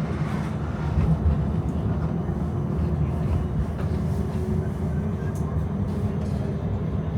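Electric tram running along its tracks, heard from inside the passenger cabin: a steady low rumble, with a faint motor whine in the middle.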